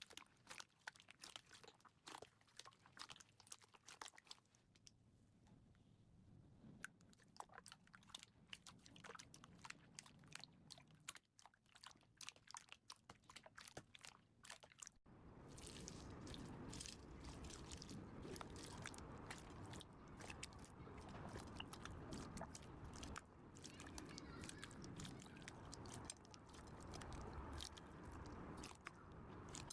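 Slime being squeezed and pressed by hand, giving a fast, irregular run of small crackling clicks and crunches. About halfway through, a low steady background noise comes in under the clicks.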